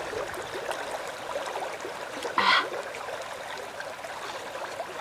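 Steady trickling, gurgling water, with one brief sharp sound about halfway through.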